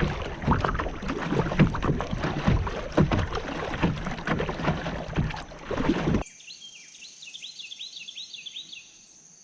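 Strong wind blowing across the microphone, with water slapping and splashing around a paddled kayak. It cuts off suddenly about six seconds in to a quiet scene of insects, likely crickets, trilling steadily, with a run of quick chirps.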